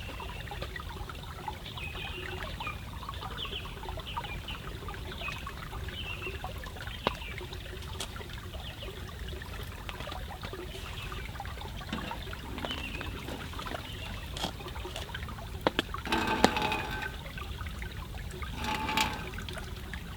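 Forest stream trickling and gurgling, with a few sharp clicks now and then. Two louder bursts of noise come near the end.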